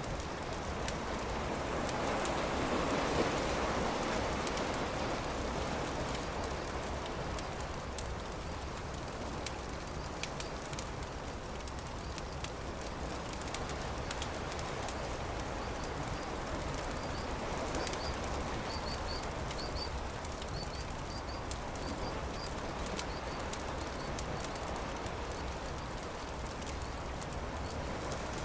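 Campfire crackling and popping over a steady wash of surf, with a wave swelling up a couple of seconds in. A bird chirps a few times about two-thirds of the way through.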